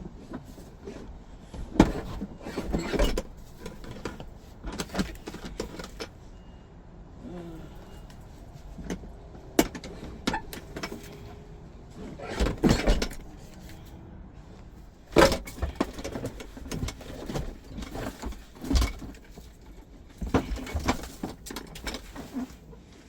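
Irregular knocks, clunks and scraping as the doghouse engine cover inside a Chevrolet G20 van is worked loose and pulled off, with a few sharp knocks among the rattling and rustling.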